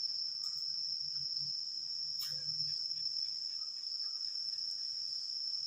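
Cricket trilling, a steady unbroken high-pitched tone. A faint click about two seconds in.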